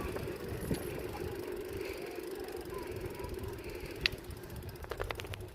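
Bicycle riding: steady rolling and wind noise, with a sharp click about four seconds in and a quick run of rattling clicks soon after.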